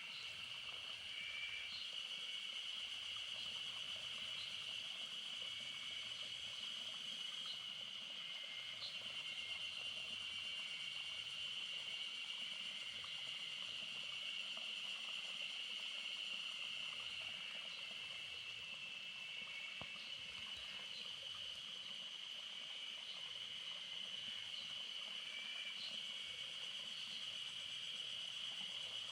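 Steady high-pitched insect chorus that holds one pitch throughout, with faint short chirps now and then.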